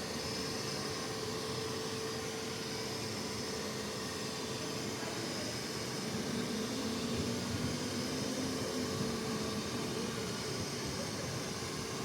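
Window-cleaning robot's suction fan running steadily, the whir that holds it to the glass, with a steady hum in it. A second, lower hum comes in about halfway through.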